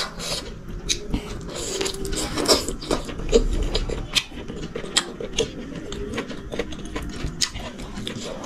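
Close-miked eating: chewing and mouth smacks of someone eating rice and chicken curry, an irregular run of wet clicks and smacks.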